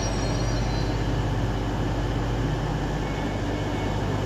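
Northern Class 195 diesel multiple unit standing or drawing up at the platform: a steady low engine hum over rail and platform noise. A faint high whine dies away in the first second.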